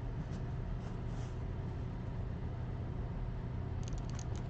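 Steady low background hum, with a few faint rustles and clicks of baseball cards being handled near the end.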